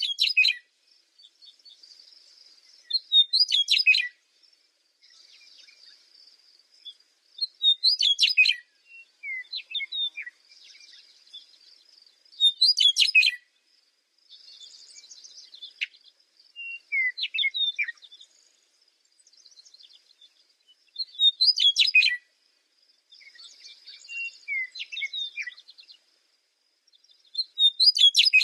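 A songbird singing short, loud, warbling phrases that repeat about every four to five seconds, with softer chirps and a faint, steady high buzz in between.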